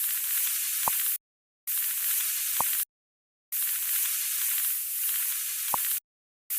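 Steady hiss in three or four stretches that start and stop abruptly, with dead silence between them and a single short tap in each stretch.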